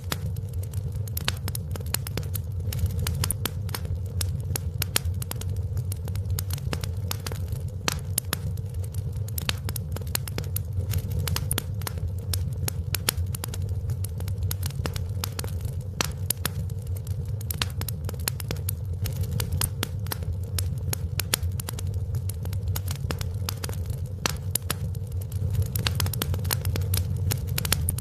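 Wood fire in a fireplace crackling: many sharp pops and snaps at irregular intervals over a steady low rumble.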